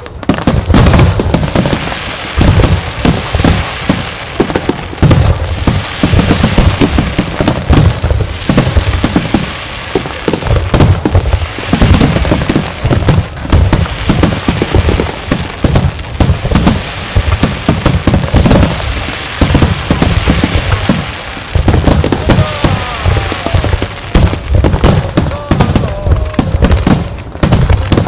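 Fireworks finale: a rapid, almost continuous barrage of aerial shells bursting, with deep booms overlapping sharp cracks, loud enough to peak at the top of the recording's range.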